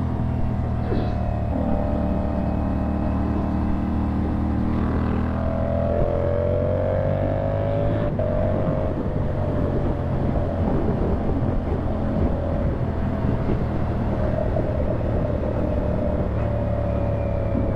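CFMoto 450SR parallel-twin engine running through a slip-on exhaust while riding. The engine note climbs and steps through gear changes around the middle, then settles into a steady cruise.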